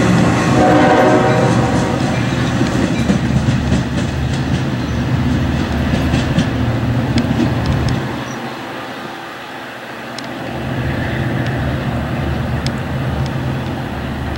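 Long Island Rail Road bilevel commuter train rolling past and away with a steady rumble of wheels on rail, its horn sounding in the first second or two. The sound drops suddenly about eight seconds in, then the rumble builds again.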